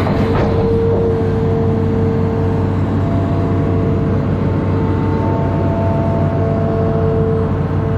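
Amphibious excavator's engine running steadily under work, a constant drone with a steady high whine over it; a brief knock near the start.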